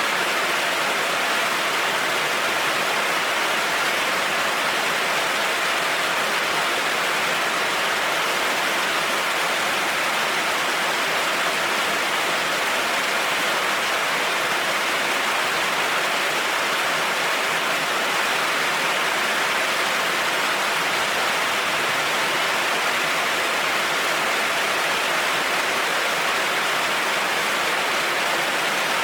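Heavy rain falling steadily, an even hiss of water with no breaks or thunder.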